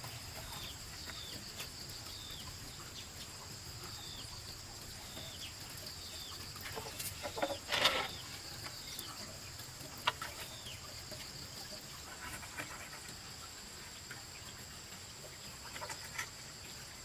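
Chickens clucking, loudest about eight seconds in, over a steady high insect drone and repeated short falling chirps.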